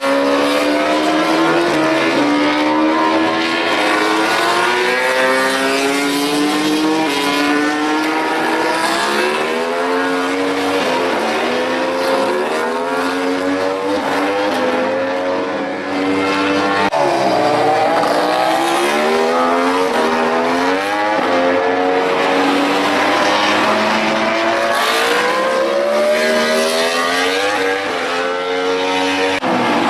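MotoGP prototype racing motorcycles at full throttle on track, engines screaming up through the gears. The pitch climbs in long rises, drops sharply at each shift, and more than one bike can be heard at once.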